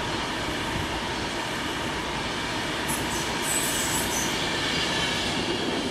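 Class 390 Pendolino electric train running through the station, a steady rush of wheels on rail with a brief high squeal about three and a half seconds in.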